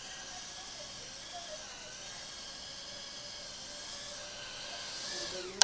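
Tiny-whoop drone's small motors and propellers whining steadily at a high pitch, drifting slightly, as it hovers and inches forward. A single sharp knock right at the end, as the drone strikes something.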